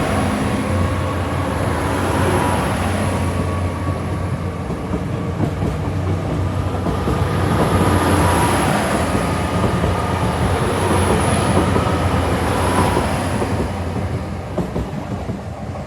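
GWR Class 802 bi-mode train pulling away under diesel power, its underfloor diesel engines running and the wheels clacking over the rail joints. The sound swells in the middle and fades near the end as the train draws away.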